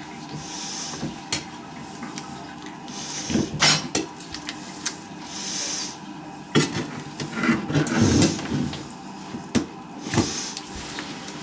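Irregular knocks, clicks and scraping of hands and tools at work, busiest in the middle of the stretch, with a short soft hiss recurring about every two and a half seconds.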